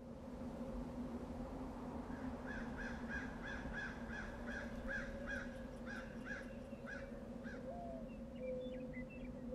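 A bird calling in a run of about a dozen short calls, roughly two a second, over a steady low drone; a few faint higher chirps follow near the end.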